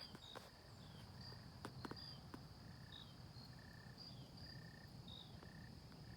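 Faint crickets chirping: short, evenly repeated chirps at two pitches, with a few soft clicks among them.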